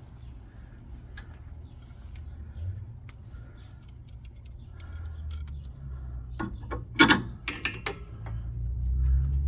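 Metal clinks and rattles of a new sway bar link and its hardware and tools being handled and fitted, with the sharpest clinks a little past the middle, over a low steady hum that grows louder toward the end.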